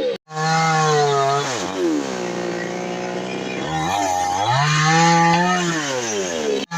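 Two-stroke chainsaw engine running, revved up and let back down toward idle several times, the pitch falling about 2 s in, climbing again about 4 s in and falling near 6 s. The sound breaks off abruptly for an instant just after the start and again near the end.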